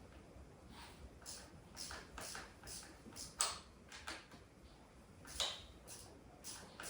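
Faint, scattered clicks and clinks of hand tools on metal parts of a dirt bike being dismantled, one every half second to a second or so, with a slightly louder knock about three and a half seconds in and again at about five and a half seconds.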